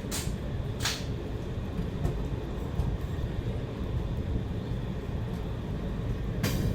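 Passenger express train at a station platform, a steady low rumble, with three short, sharp bursts: one right at the start, one about a second in, and one near the end.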